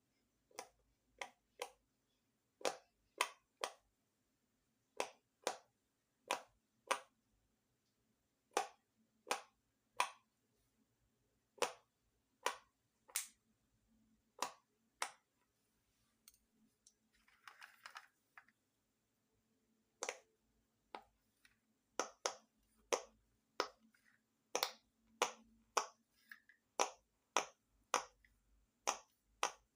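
Bubbles of a handmade pop-it fidget toy being pressed one at a time, each giving a sharp pop, at an uneven pace of one or two a second. A short rustle a little past halfway breaks the run of pops.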